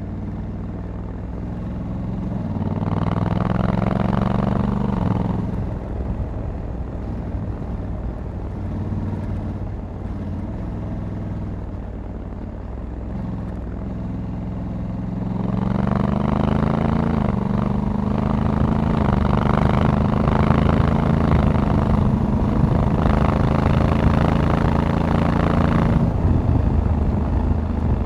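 Honda Africa Twin 1100 DCT's parallel-twin engine heard on the move from the rider's seat. It pulls harder about three seconds in and eases off, then accelerates again from about halfway with the pitch rising, holds under load, and eases off near the end.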